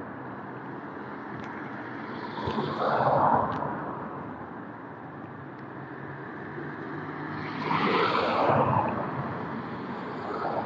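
City street traffic: a steady hum of road noise with two cars passing, one about three seconds in and another about eight seconds in, each swelling and fading away.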